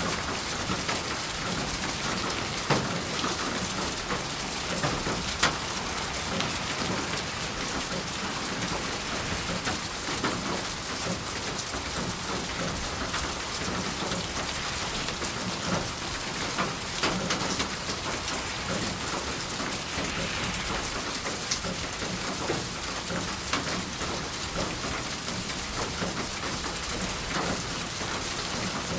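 Steady rain falling on a surface, with scattered individual drops ticking louder now and then.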